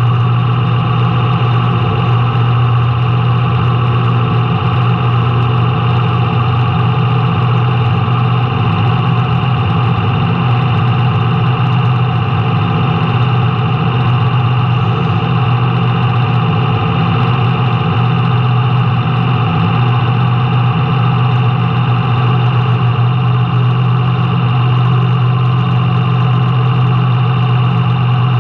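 Race car engine heard from the on-car camera, running steadily at one unchanging pitch with no revving up or down.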